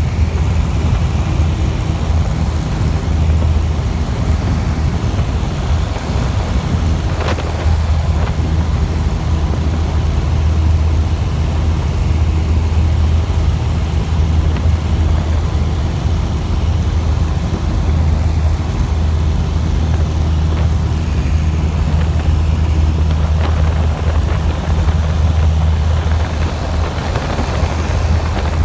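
Steady, loud engine and propeller drone of an aircraft in flight, heard from inside its cabin, with a constant low hum and rushing noise.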